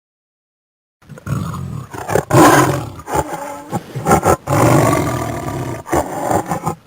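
A big cat roaring and growling in a series of loud, rough calls with short breaks between them, starting about a second in after silence.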